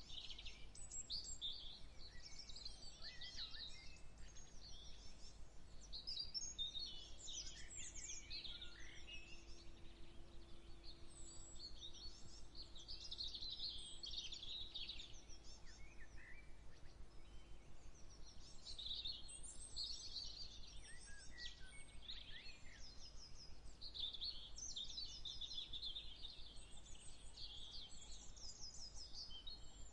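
Several songbirds chirping and singing over one another: quick twittering calls and rapid trills, with one call after another throughout.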